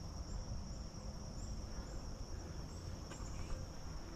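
Insects, such as crickets, trilling in a steady chorus: one constant high-pitched tone with faint short chirps above it about twice a second. A low rumble runs underneath.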